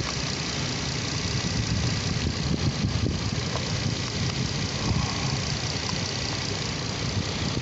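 2010 Nissan Maxima's 3.5-litre V6 idling steadily with the hood open.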